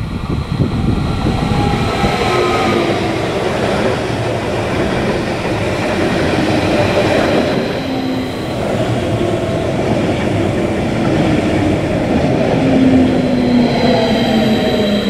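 Train passing on the track, its wheels rolling over the rails, with whining tones that slide down in pitch.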